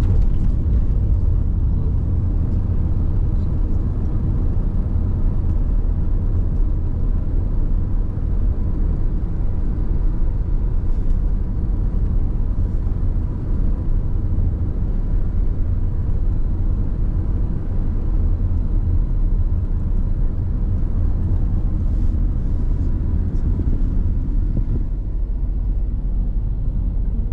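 Steady low rumble of a car driving along a road, engine and tyre noise heard from inside the moving vehicle.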